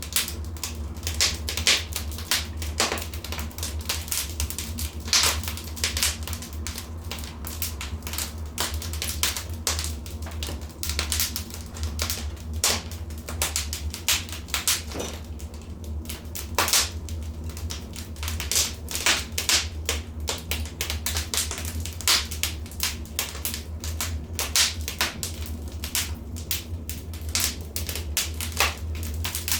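Wood fire in a fireplace crackling, with irregular sharp pops and snaps, some much louder than others, over a steady low rumble.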